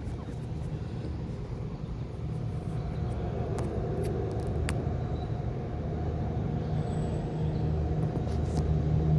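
Air-conditioning condensing units running in cool mode: a steady low hum with fan noise over it, slowly growing louder.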